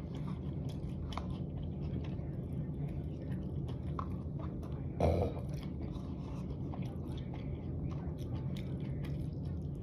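Close-miked chewing and biting of spicy dry hot pot, with small crunches and wet mouth clicks over a steady low hum, and one louder bite about halfway through.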